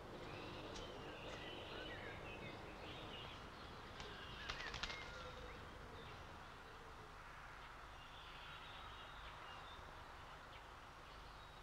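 Faint birds chirping over a quiet background hiss, with a short cluster of sharp clicks about four and a half seconds in.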